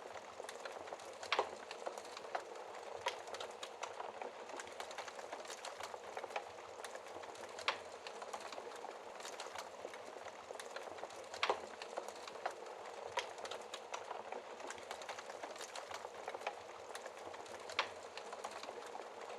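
Wood fire burning in a fireplace: a steady crackle of many small snaps, with a few louder pops spaced several seconds apart.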